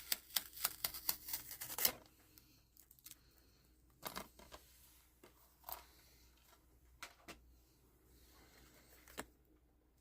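Plastic DVD cases being handled: a quick run of clicks and rustling for about two seconds, then a few scattered soft clicks.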